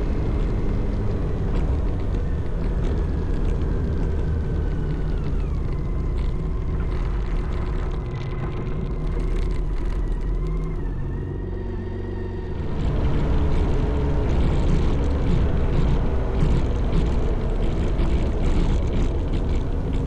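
Motorcycle engine running and wind rush on the move. Its note drops about five seconds in, then it gets louder with more wind noise from about thirteen seconds in.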